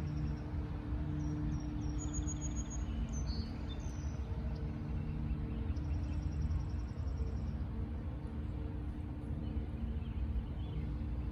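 Small birds give short, high chirps and thin whistled notes, most of them in the first few seconds, over a steady low rumble with a constant hum.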